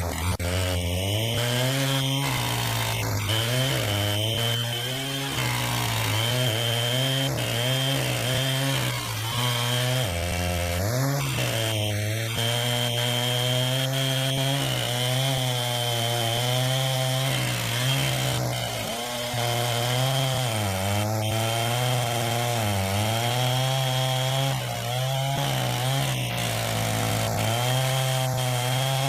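Chainsaw cutting through wood under load, the engine running near full speed; its pitch sags and recovers again and again as the chain bites into the cut.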